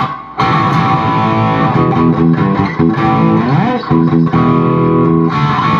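Electric guitar played through a Peavey 6505+ combo amp with a Zoom G1X Four multi-effects pedal in the amp's effects loop, strumming a chord riff with a short break right at the start and a pitch slide about three and a half seconds in.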